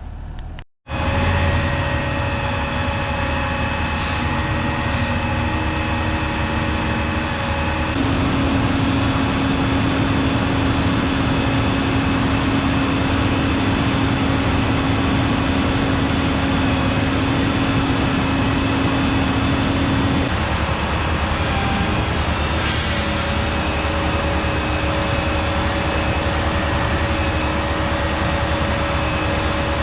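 Heavy diesel equipment running steadily: belt trucks and a grader placing sand. A steady whine joins about eight seconds in and stops near twenty seconds, and a short hiss of released air comes soon after.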